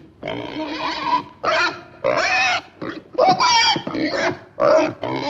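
A farm animal calling over and over: about ten loud cries in quick succession, some high and squeal-like with bending pitch, others lower and shorter.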